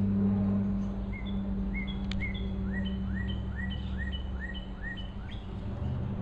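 A small bird singing a series of about ten short whistled notes, each sliding up and levelling off, repeated evenly, over a steady low hum.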